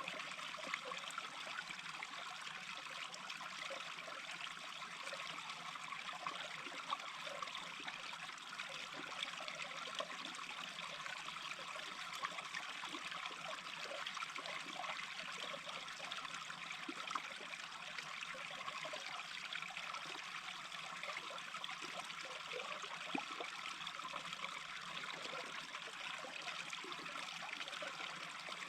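A small brook babbling and trickling steadily, with a few slightly louder splashes here and there.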